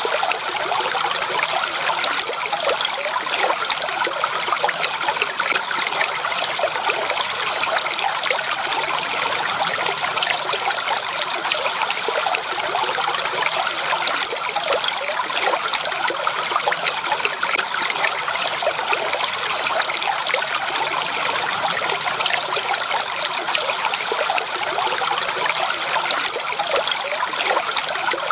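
Natural flowing water trickling steadily, a dense patter of small splashes with no let-up.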